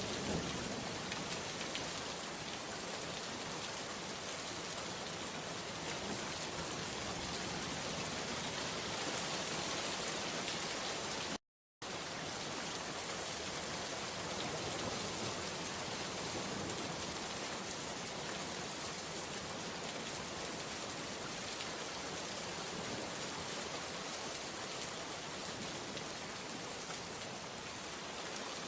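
Steady rain falling, a dense even hiss with fine patter of individual drops. It cuts out completely for a split second about eleven seconds in, then resumes unchanged.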